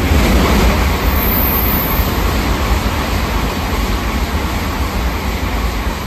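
Tokaido Shinkansen train running along the platform, a loud deep rumble with rushing wheel and air noise that swells at the start and eases off slowly.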